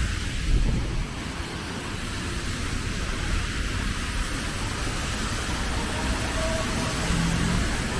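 Steady rain and road traffic: a continuous hiss over a low rumble, with a faint short tone near the end.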